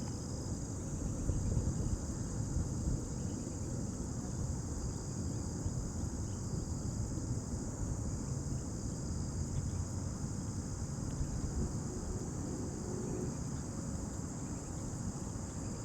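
Steady outdoor insect chorus, a continuous high trill like crickets, over a low uneven rumble.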